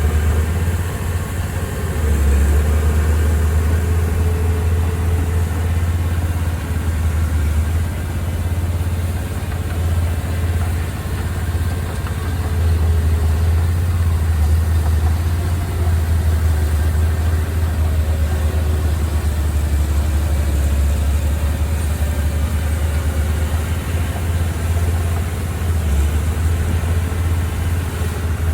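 Heavy earthmoving machine's engine running steadily with a deep, low hum that swells and eases slightly in level.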